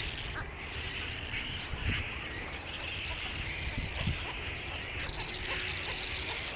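Many small birds chirping and chattering at once in a continuous dense chorus, over a low steady rumble.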